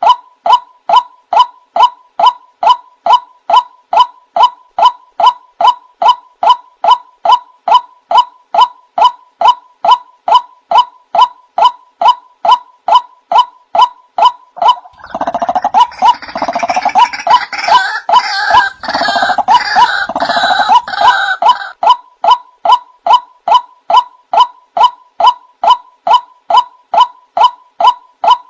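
Male white-breasted waterhen calling a steady run of repeated 'wak' notes, about two and a half a second. About halfway through, a louder, harsher chattering joins in over the notes for some six seconds, then the plain repeated notes go on.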